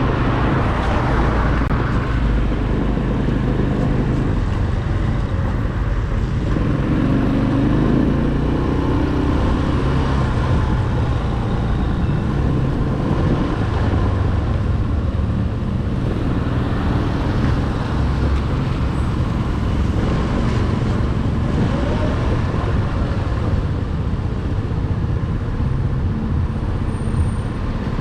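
Corven 110 Energy motorcycle being ridden in the rain: its small single-cylinder four-stroke engine runs steadily under a constant rush of wind and wet-road noise.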